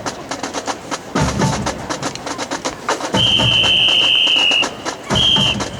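Marching band drumline playing a cadence of quick stick clicks and drum hits. Over it a whistle sounds one long blast a little past halfway, then a short blast near the end.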